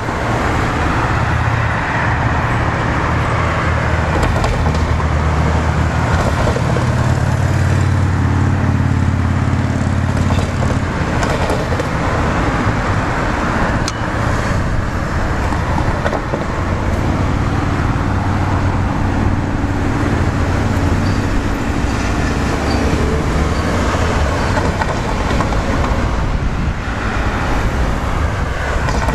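Queensland Rail Tilt Train pulling slowly into the station on narrow-gauge track: a steady rumble of the train running on the rails, with a low hum that fades in and out.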